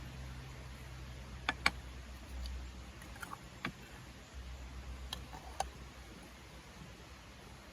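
A handful of light, sharp clicks and ticks, in pairs, over a low steady rumble.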